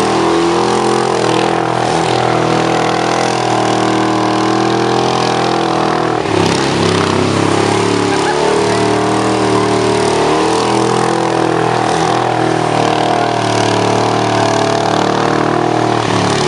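Seven-style kit car's engine held at high revs, running steadily while it spins its rear wheels on grass, doing doughnuts.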